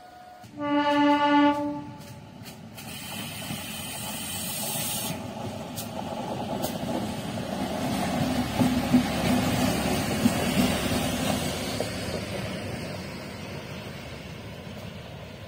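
A train horn sounds one loud blast of about a second near the start. Then an Indian Railways OHE inspection car runs past on the track, its running noise building to a peak midway and fading as it moves away.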